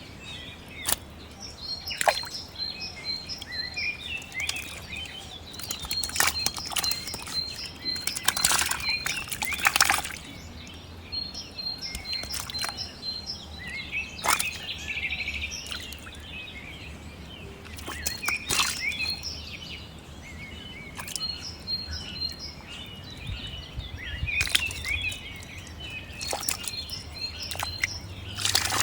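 Birds chirping and calling, including a repeated string of short high chirps, with scattered short noisy bursts in between.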